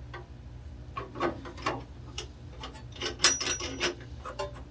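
Clicks, light knocks and clinks of a removed saw blade and its metal fittings being handled, with a short metallic ring a little over three seconds in, over a steady low hum.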